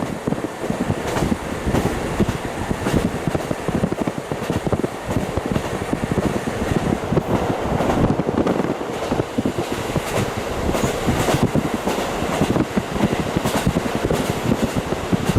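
KiHa 40 diesel railcar running along the track, heard through a fully open window: steady wheel-on-rail and wind noise with sharp clicks now and then.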